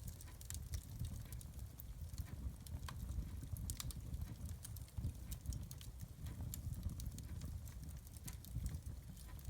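Fire crackling in a fireplace: irregular sharp pops and snaps over a low, steady rumble of the flames.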